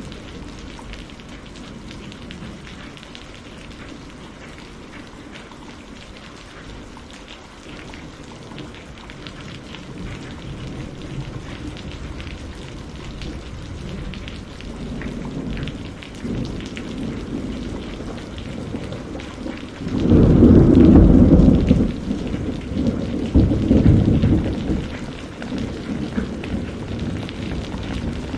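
Steady rain falling, with distant thunder rumbling and building. About two-thirds of the way through comes a loud, deep thunderclap, followed a few seconds later by a second rolling peak before it fades back under the rain.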